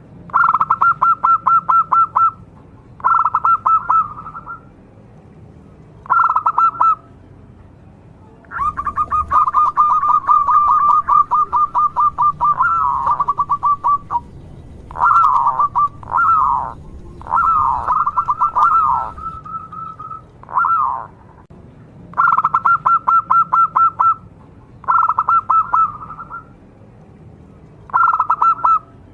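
Local zebra dove (perkutut) singing: about ten phrases of rapid, stuttering cooing notes, separated by short pauses. A long phrase in the middle is followed by several phrases with quick falling swoops.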